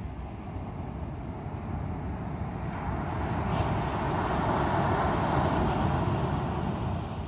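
Ocean surf: waves breaking and washing on the shore, one wave's rush swelling about three seconds in and easing off near the end.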